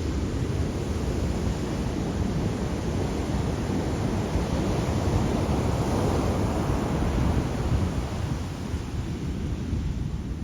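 Ocean waves breaking and washing in, a steady surf noise with a heavy low rumble; one wave swells up about halfway through and eases off near the end.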